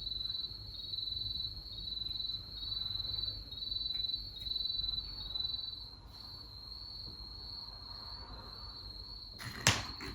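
Night insects chirping in short high trills about once a second, which run together into a steady trill partway through, over a low hum. A single sharp knock sounds near the end.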